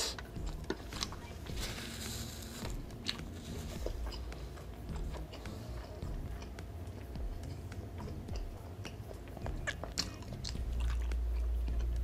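Close-miked chewing of a mouthful of hot dog and instant noodles, with scattered wet mouth clicks and smacks.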